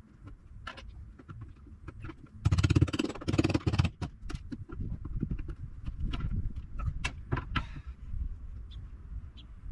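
Hand demolition work on a boat's window frame: scattered sharp knocks and cracks, with a loud stretch of scraping and crunching about two and a half seconds in.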